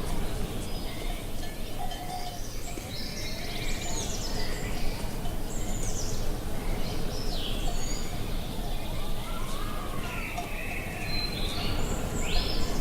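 Steady wind rumble outdoors, with several wild birds calling and chirping over it; a quick run of sharp rising notes comes near the end.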